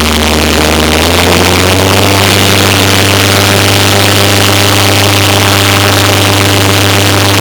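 Bobcat S150 skid steer's diesel engine running, its pitch stepping up about a second in as the revs rise, then holding steady at the higher speed.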